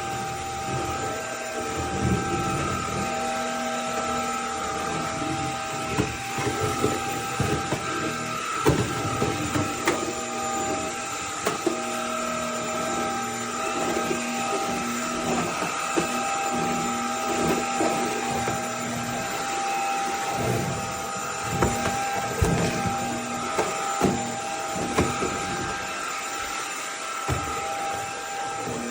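Cordless stick vacuum cleaner running steadily, its motor giving a constant whine, with scattered clicks and knocks over it.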